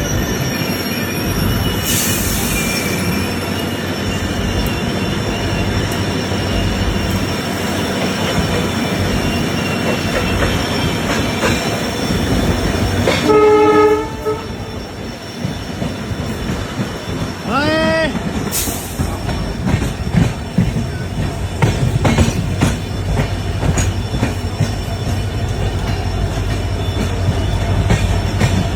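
Indian Railways express train running, a steady rumble of wheels on track. Its horn sounds once about halfway through for about a second, and a shorter tone that bends in pitch follows a few seconds later, with two brief hissing bursts along the way.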